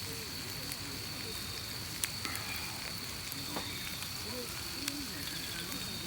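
Wood campfire burning with a steady hiss and a few sharp crackling pops, over a steady thin high-pitched tone.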